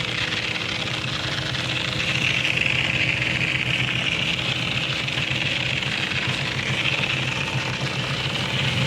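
Self-service car-wash pressure washer spraying soap: a steady hiss of the jet over the even hum of the pump motor.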